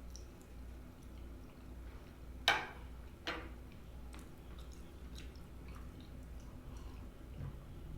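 Close-miked eating: chewing with many small wet clicks. There are two sharper clicks about two and a half and three and a quarter seconds in, and a steady low hum underneath.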